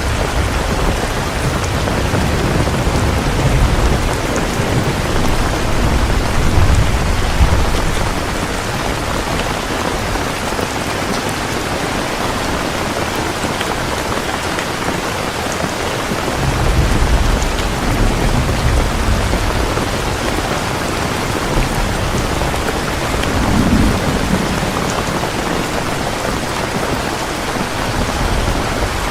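Heavy rain falling steadily in a dense, even hiss. Low rumbles swell under it through the first several seconds and again about halfway through.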